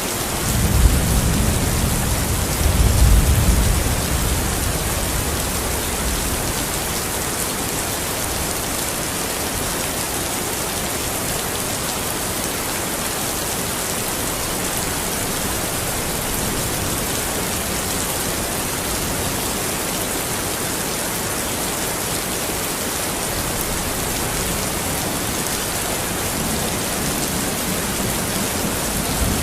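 Steady, even rain falling, with a low rumble of thunder in the first few seconds and another beginning near the end.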